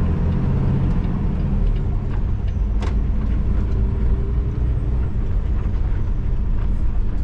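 Peterbilt 567 semi truck's diesel engine running steadily, with a single sharp click about three seconds in.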